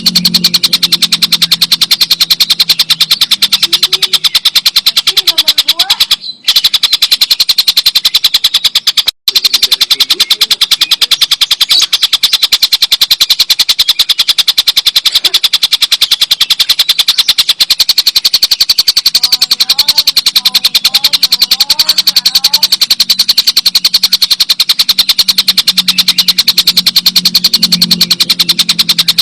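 Stork-billed kingfisher (tengkek buto) giving its long cackling 'ngekek' call: a loud, rapid, machine-like run of repeated notes. It breaks off briefly twice, about six and nine seconds in.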